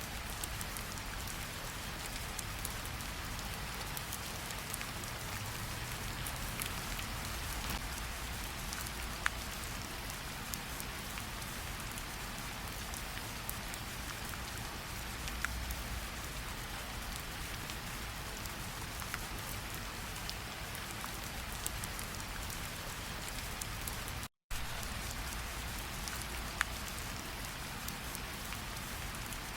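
Steady tropical rain falling on leaves, damp ground and standing water, with scattered louder single drops ticking through it. The sound cuts out for a split second near the end.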